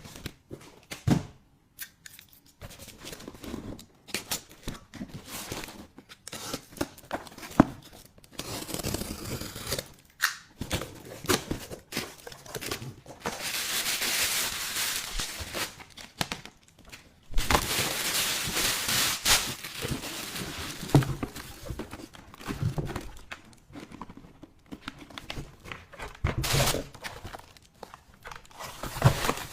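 Hands unpacking and handling gadgets: packaging crinkling and tearing, with scattered clicks and knocks of objects being set down. Longer stretches of rustling and tearing come about halfway through.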